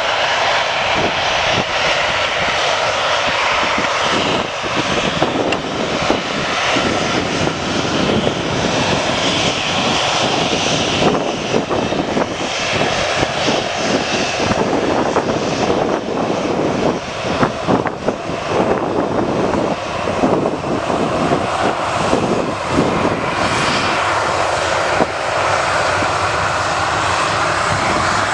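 Jet airliner engines running with a loud, steady rushing roar.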